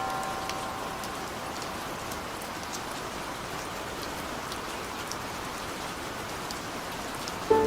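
Steady rain falling, an even hiss with scattered individual drops ticking. A soft chord of music tones fades out at the start, and a new one starts just before the end.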